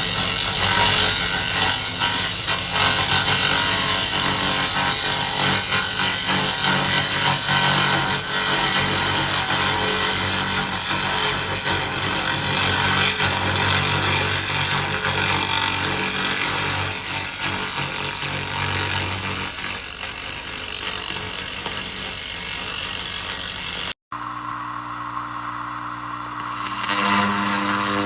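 2000-watt laser rust remover at work: a steady, harsh, crackling hiss over a low machine hum. Near the end the sound cuts to a steadier mechanical hum with distinct tones that grows louder.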